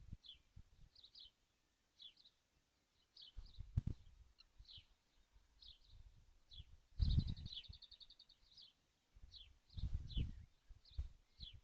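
Birds calling: short high chirps, each falling in pitch, repeated about twice a second, with a rapid run of a dozen quick notes about seven seconds in. Low thumps and rumbling come and go beneath them, loudest around the rapid run.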